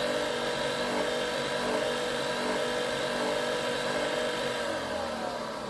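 Nespresso Vertuo Next coffee machine whirring steadily after its button is pressed, then winding down in pitch near the end. It is a brew attempt that stops without making coffee and ends in the machine's error.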